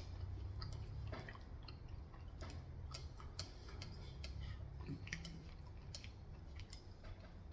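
Faint chewing of Korean fried chicken: scattered small clicks and crunches, over a low steady hum.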